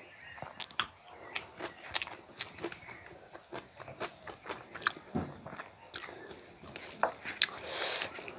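Close-miked mukbang eating sounds: rice and curry being chewed by mouth, with irregular wet smacking clicks several times a second. Near the end a brief softer squish is heard as fingers work the rice.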